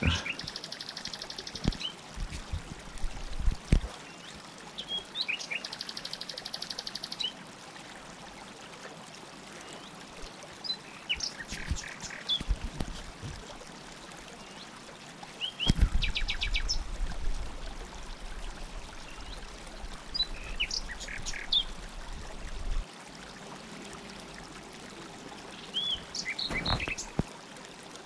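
Birds singing: short high chirps and rapid high-pitched trills that come in phrases every few seconds, with a few soft knocks early on.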